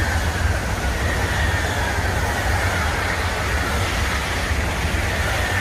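German high-speed train running past on the track: a steady rumble with a faint whine that slowly falls in pitch.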